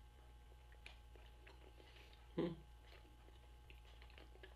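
Someone chewing a mouthful of Hot Pocket: faint, quiet mouth clicks, with one brief, louder low sound about halfway through.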